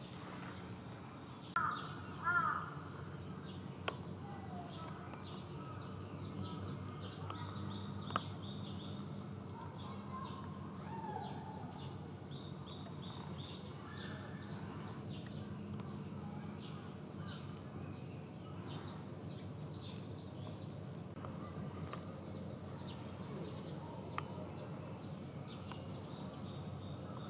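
Outdoor birdsong: two short calls about two seconds in, then repeated series of high, rapid chirps through most of the rest, over a steady low hum.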